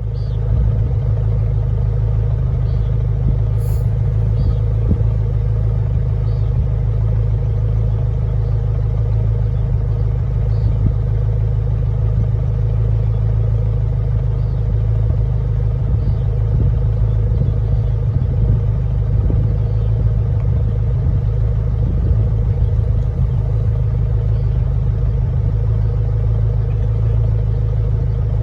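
Steady road and engine noise inside a moving car's cabin: a constant low rumble with a faint steady hum above it.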